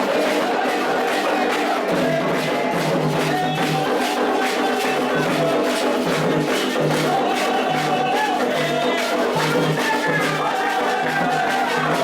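Candomblé ritual music: hand drums beating a fast, even rhythm with a group singing a chant to the Orixás, and a repeating deep drum pulse joining about two seconds in.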